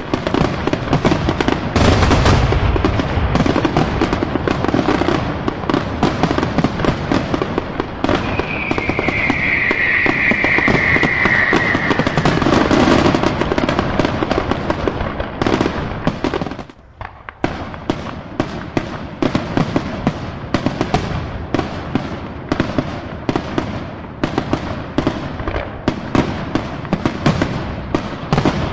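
Fireworks finale: a dense, continuous barrage of bangs and crackling, with a heavy low boom about two seconds in. A high whistle, falling slightly in pitch, lasts about four seconds from about eight seconds in, and the barrage lulls briefly about seventeen seconds in.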